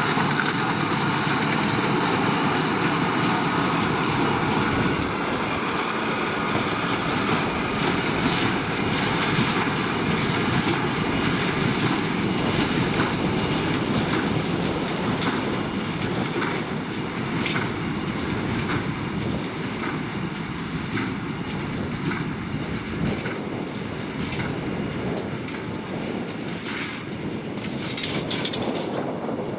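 Tractor and large square baler working, with a steady engine and machinery noise. From a few seconds in, a sharp clack repeats about once a second.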